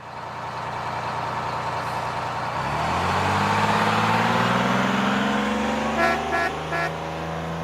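A motor vehicle's engine running and speeding up, its hum rising in pitch, then three short horn toots about six seconds in.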